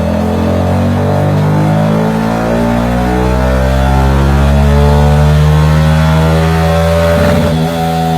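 Yamaha M-Slaz 150 single-cylinder engine running through a Prostuff ST2 Pro aftermarket exhaust under load on a dyno, the revs climbing steadily, with a brief break and dip about seven seconds in before holding high.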